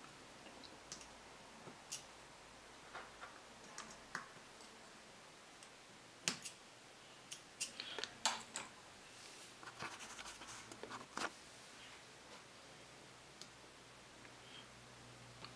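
Small metal parts and hand tools clicking and tapping on a workbench while a small model engine is being worked on, in irregular light taps that come thickest in a run of about five seconds midway through.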